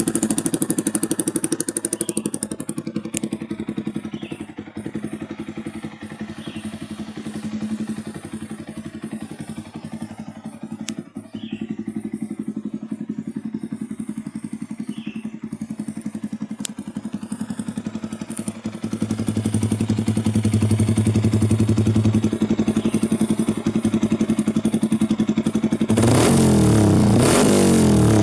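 Yamaha YZF-R15 V3 BS6's single-cylinder engine idling through an aftermarket Daytona exhaust with a steady pulsing note, then revved up and down, louder, a couple of seconds before the end.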